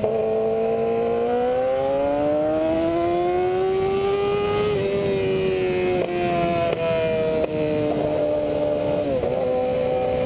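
Yamaha R6 sport bike's 600 cc inline-four engine under hard acceleration. Its pitch climbs steadily for the first four or five seconds, then holds high, broken by several quick dips and recoveries as the throttle is briefly rolled off and back on.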